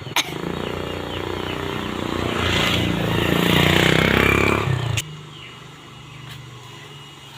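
A motor vehicle's engine running close by, growing louder until about four and a half seconds in, then cutting off abruptly at about five seconds and leaving a quieter low steady hum.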